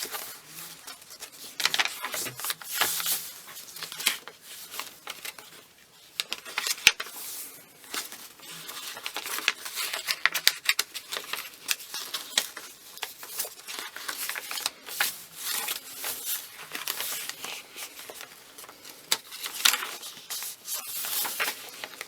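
Thick paper pages and tags of a handmade junk journal being turned and handled: irregular rustling and crinkling with many small clicks and taps.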